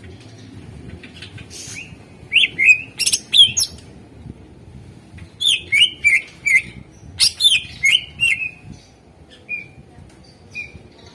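Cucak ijo (green leafbird) singing: loud clusters of quick, sweeping chirps and whistles in three bursts, then a couple of softer single notes near the end.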